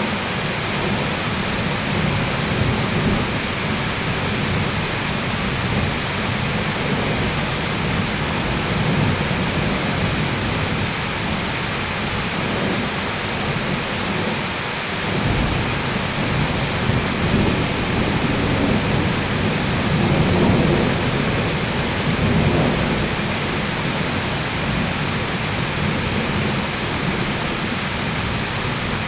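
Steady hard rain with thunder rumbling low underneath, swelling several times, the loudest rumble about two-thirds of the way through.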